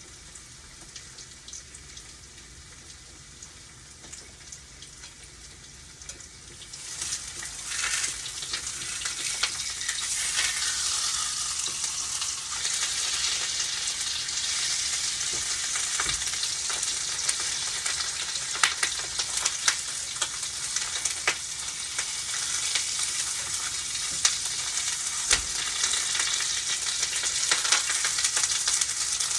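Tofu frying in hot oil in a pan: a faint sizzle, then about seven seconds in the sizzling jumps much louder and stays loud, full of sharp crackles and pops.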